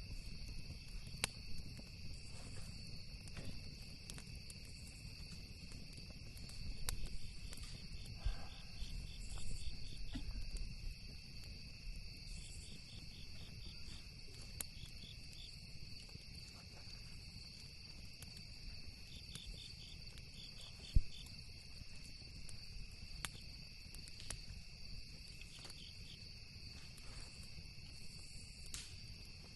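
Steady chorus of crickets, with bursts of rapid pulsed chirping coming and going. Occasional sharp pops from a crackling campfire break through, the loudest about two-thirds of the way in.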